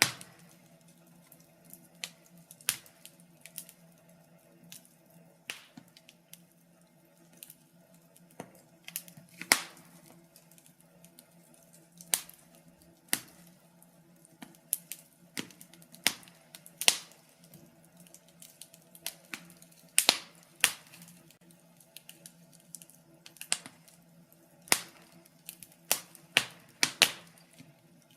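Wood fire in a fireplace crackling: irregular sharp pops and snaps, sometimes several close together, over a faint steady hum.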